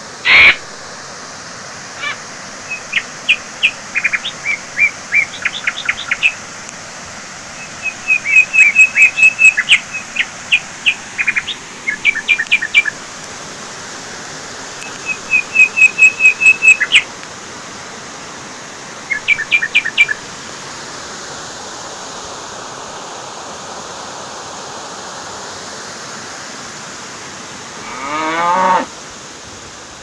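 Steady rush of water flowing along a concrete irrigation canal. A crow caws once just at the start, and small birds chirp in quick series of sharp notes and trills through the first two-thirds. A longer call comes near the end.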